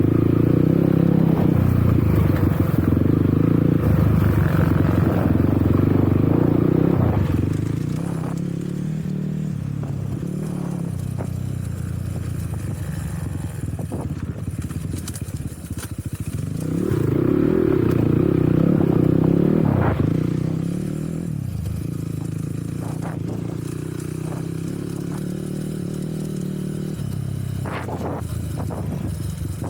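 Enduro motorcycle engine running under throttle. It is louder for the first seven seconds and again for a few seconds past the middle, and drops back to a lower steady running in between and toward the end, with scattered knocks and rattles.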